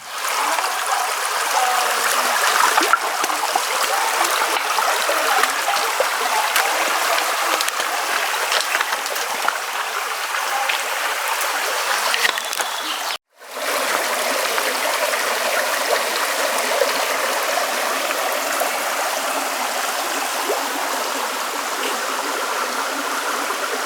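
Water of the Pshada river flowing, a steady rush with no pauses except one brief cut-out about 13 seconds in.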